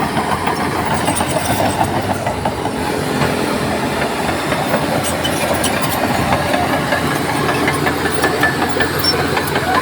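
Crawler bulldozer working: its diesel engine running steadily under load over the continual clanking and rattling of its steel tracks.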